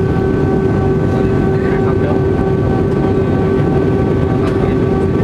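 Aircraft engine noise heard inside the cabin in flight: a steady drone with several constant whining tones over a low rumble.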